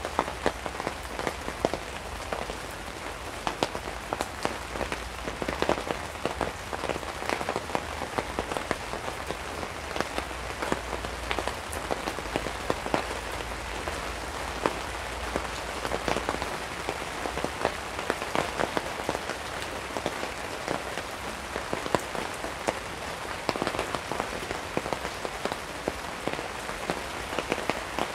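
Heavy rain falling on a tarp: a steady hiss with many sharp drop hits scattered through it.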